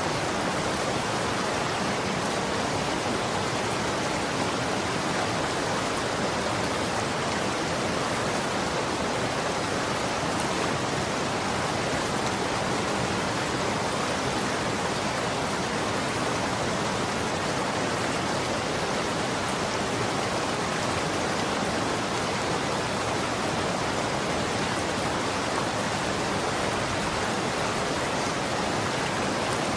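Running water rushing steadily, a constant even wash with no breaks.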